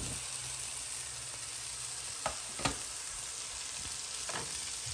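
Crumbled tofu sizzling as it goes into hot oil and fried masala in a kadhai: a steady sizzle, with two sharp knocks a little past the middle and a fainter one near the end.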